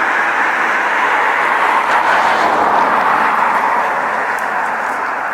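A road vehicle driving past: tyre and road noise that swells to a peak about two to three seconds in, then fades away.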